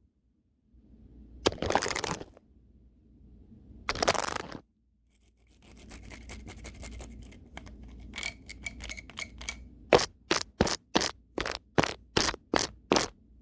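Brush bristles swept hard across the microphone: two long strokes, then a few seconds of quieter fine scratching, then quick short strokes about three a second near the end.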